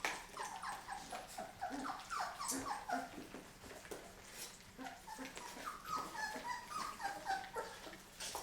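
Three-week-old chocolate Labrador retriever puppies whimpering and squeaking: a string of short cries that fall in pitch, some overlapping.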